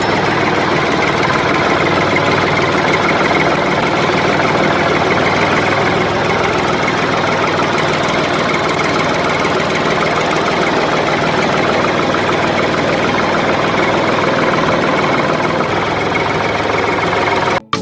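An engine running steadily at an even idle, cutting off suddenly near the end.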